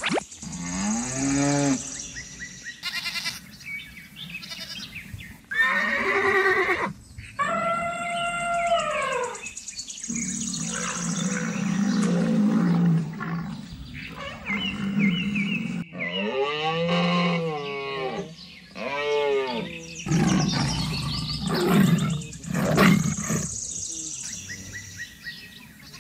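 A string of recorded animal calls, one after another, each a second or two long, with the pitch rising and then falling within each call.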